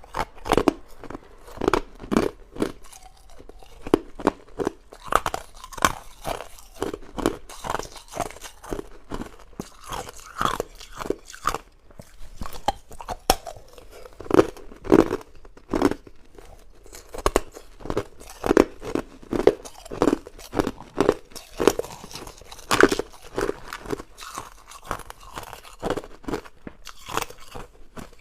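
A person biting and chewing hard ice cubes close to the microphone: loud, crunchy cracks several times a second with brief pauses between bites.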